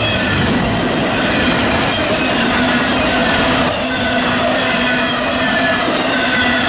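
BNSF freight train rolling by, a steady noise of the cars on the rails with short, high wheel squeals coming and going.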